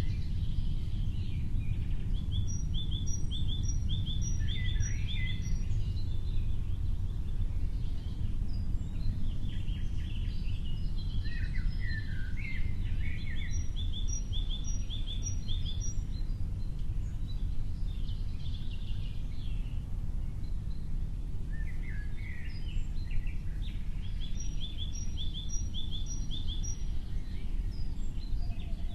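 Birds singing: a short phrase of about six quick, even notes repeats three times, roughly ten seconds apart, with other chirps and twitters between. A steady low rumble runs underneath.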